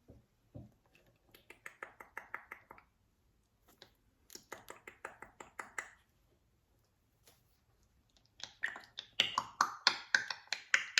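Rapid dry clicking in three bursts of about ten clicks a second, the last and loudest near the end.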